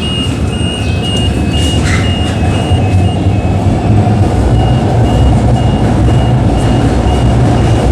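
CTrain light-rail train rumbling at a station platform, growing a little louder about halfway through, with a high electronic beep repeating about twice a second that stops briefly near the middle.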